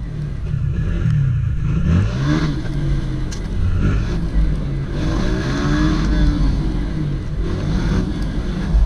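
Honda CG 160 Titan motorcycle's single-cylinder engine running on the move, its pitch rising and falling several times as the rider opens the throttle and lets off.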